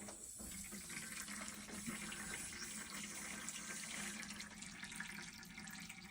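Water hissing and spraying steadily from a leaking PEX fitting on the house's main supply line after the water is turned back on: the repaired joint is still leaking. A faint steady hum lies under it.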